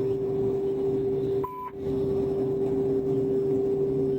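A steady electronic tone, like a hum, broken briefly about a second and a half in by a short higher beep.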